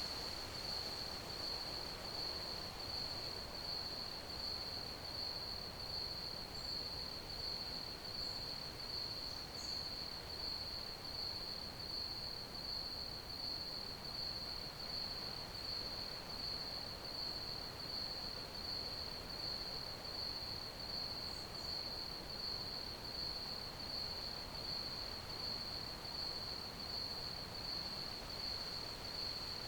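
Crickets chirping: a continuous high-pitched trill that pulses evenly, over a soft background hiss.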